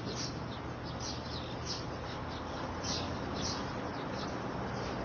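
Small birds chirping: short high chirps repeating every half second or so, over a steady background hiss and low hum.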